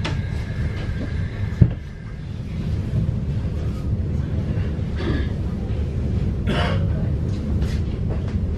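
Commuter train's steady low running rumble heard from inside the carriage. A thin high squeal from the wheels or brakes fades out about two seconds in, and there is one sharp knock about a second and a half in.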